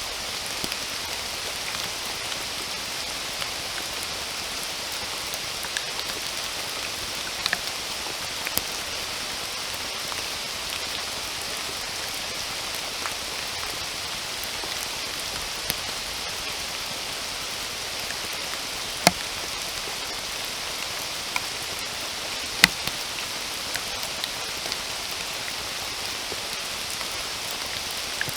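Steady rain falling in a forest, a continuous even hiss with scattered sharp ticks of single drops landing close by, two of them louder about two-thirds of the way through.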